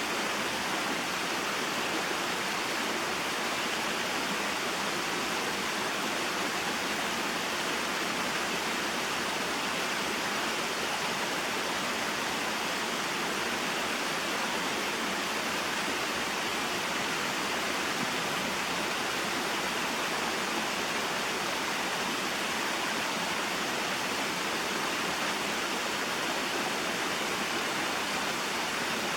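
Small mountain waterfall and stream flowing, a steady, even rush of falling and running water with no breaks or changes.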